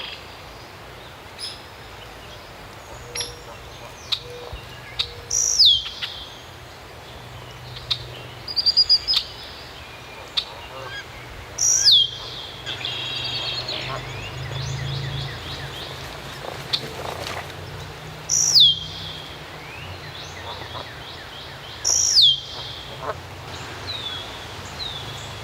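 A bird's loud, clear whistle sliding steeply down in pitch, given four times a few seconds apart, with a quick run of short chirps in between, over a faint low hum.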